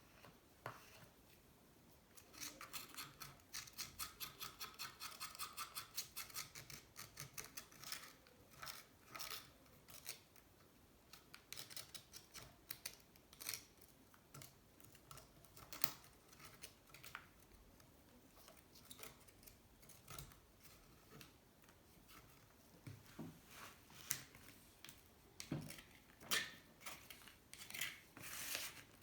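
A hand tool scraping and scratching at engine parts. A fast run of short strokes, about four or five a second, lasts for several seconds, then gives way to irregular scrapes and clicks.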